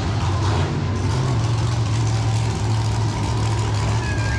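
Monster truck engine running steadily with a loud, low drone.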